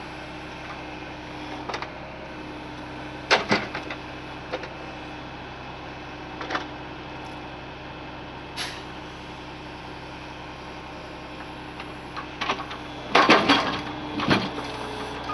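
Ural truck's engine running steadily with a low hum, broken by short metallic clanks and knocks, with the loudest cluster of them about thirteen seconds in.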